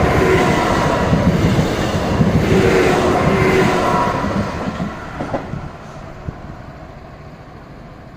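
Electric passenger train passing over the level crossing: a loud rush of wheels on rail that fades away about halfway through, with a few wheel clicks as it goes.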